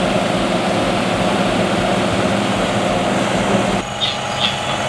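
Dumpster truck driving: a steady engine-and-road drone, which drops off abruptly near the end, followed by a few faint high chirps.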